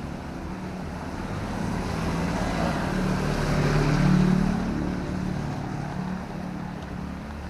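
A motor vehicle passing on a wet road: its engine hum and tyre hiss swell to a peak about four seconds in, then fade, over a steady hiss of drizzle.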